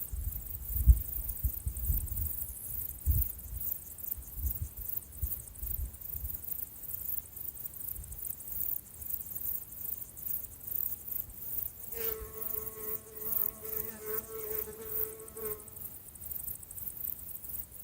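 Insects trilling in fast, even high-pitched pulses throughout. About twelve seconds in, a fly buzzes close by for about three and a half seconds. Low thumps come in the first few seconds.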